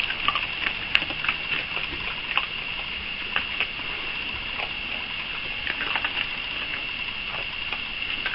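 A raccoon feeding on sunflower seeds at a bird feeder: irregular small clicks and crackles as the seeds are crunched, over a steady high-pitched tone.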